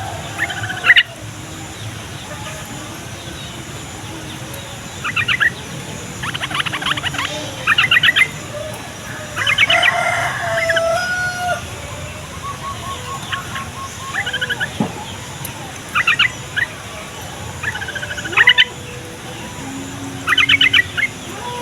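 Yellow-vented bulbuls (trucukan) singing: short bursts of rapid, bubbling chatter repeated every second or two. A rooster crows once in the background about ten seconds in.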